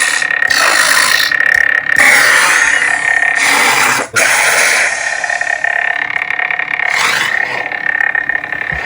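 Custom lightsaber playing a Lord Blako sound font: a steady high electronic hum with swing whooshes swelling and fading as the blade is swung, and a brief cut-out about four seconds in.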